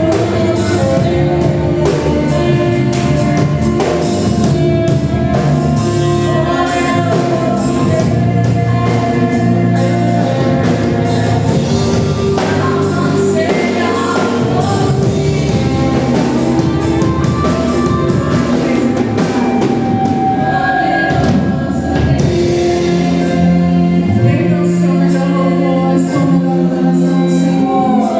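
Live gospel worship music: singers with guitar, bass and drum kit playing a praise song.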